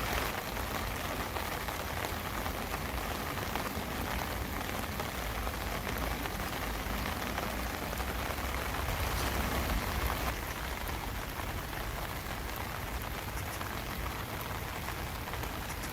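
Steady summer rain falling on a field path and vegetation, a dense hiss with many small drop ticks and a low rumble underneath.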